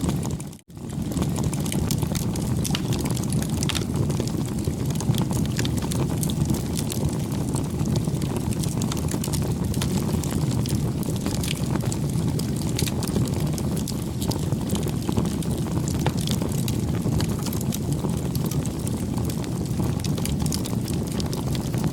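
Campfire burning: a steady low rush with many small crackles and pops throughout. The sound drops out briefly about half a second in.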